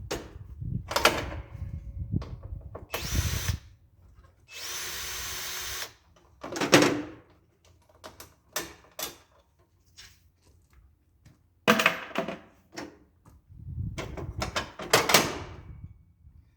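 Handheld power drill-driver running in short bursts, the longest a steady spin of about a second and a half, amid irregular knocks and clatter of hand tools and metal parts.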